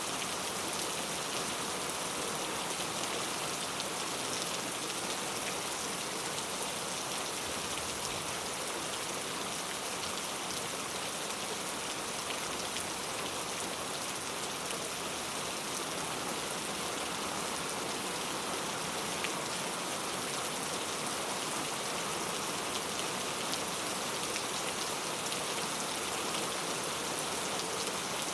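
Heavy rain falling steadily on street and hard surfaces, an even hiss with scattered individual drop ticks.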